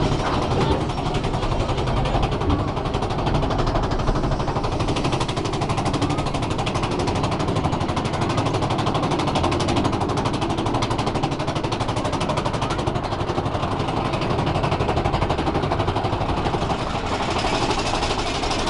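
Mine-train roller coaster cars rattling along the track at speed, a rapid, continuous clatter.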